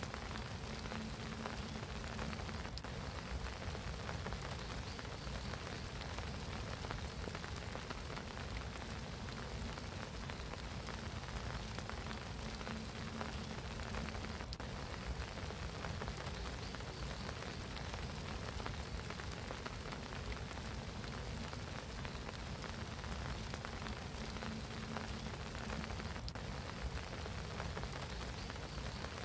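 Spring rain falling steadily on a pond, an even patter of drops on water. A faint low tone comes and goes a few times under the rain.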